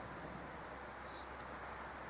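Steady hiss with a low, even hum, no thunder: the background noise of a phone's microphone inside a parked car. A faint, brief high chirp about a second in.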